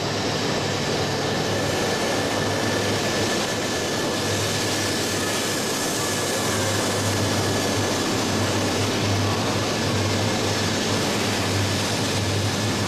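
E3 series Shinkansen train running past along a station platform: a steady rush from the passing cars over a low hum that swells and fades, with a thin steady high tone.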